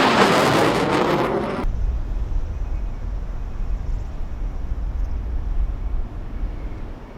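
Jet engines of an RC-135U Combat Sent passing close, loud, with the pitch falling as it goes by. After about a second and a half the sound cuts off abruptly to a steady low rumble.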